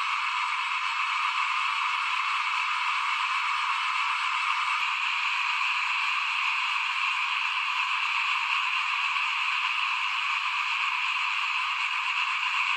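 A dense, steady chorus of many small frogs calling at once, with no single call standing out.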